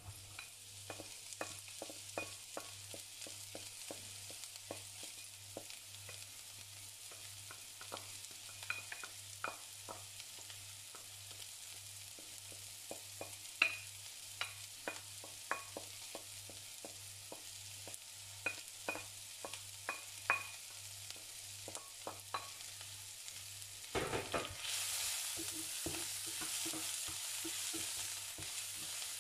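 Chopped garlic and onion frying in oil in a stainless steel pan: a steady sizzle with scattered sharp crackles and pops. It turns louder and fuller near the end as the pan is stirred with a wooden spatula.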